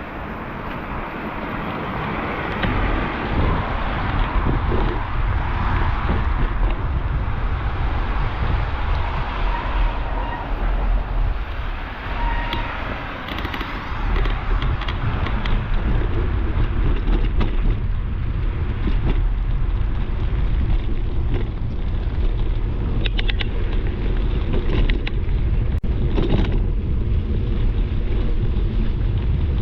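Riding noise from a bicycle on wet city streets: wind buffeting the microphone over a steady hiss of tyres on wet pavement. The hiss is louder through the first half, fitting passing traffic, and a few short sharp ticks come near the end.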